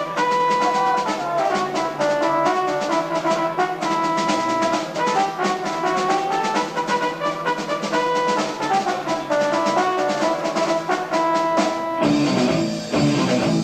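Live progressive rock band playing, heard on an amateur tape recording: a fast melody of short stepping notes in a brass-like keyboard sound over a sustained low line. About twelve seconds in the texture thickens, with cymbal-like noise filling the top.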